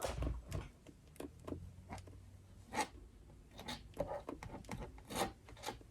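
Palette knife scraping and dabbing acrylic paint onto a canvas in short scratchy strokes at irregular intervals.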